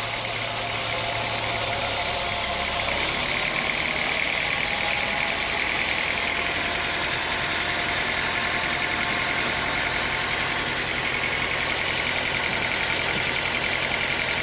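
Sawmill machinery running steadily: a continuous engine-driven mechanical noise.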